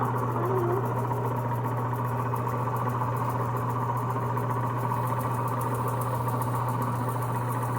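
Electric sander running steadily with a constant motor hum, sanding a painted pedal handle with 220-grit sandpaper between coats of paint.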